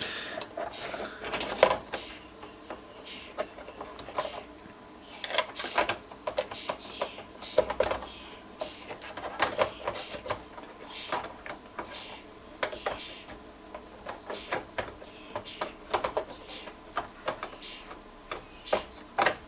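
Irregular clicks, taps and light clatter of small metal parts, screws and a hand screwdriver being handled as an amplifier is put back together.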